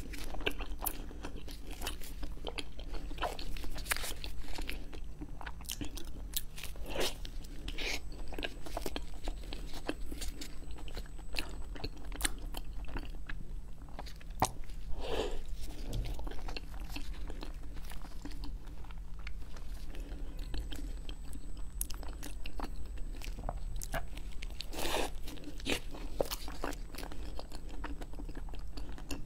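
Close-miked biting and chewing of a soft cream-filled mochi cake, with short mouth and bite sounds scattered throughout and a few louder ones among them, over a faint steady low hum.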